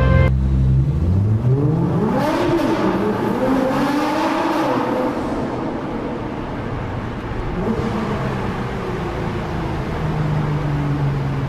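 Nissan GT-R's twin-turbo V6 accelerating hard. Its pitch climbs steeply over the first two seconds, rises and falls through the middle, and settles to a steadier lower note near the end.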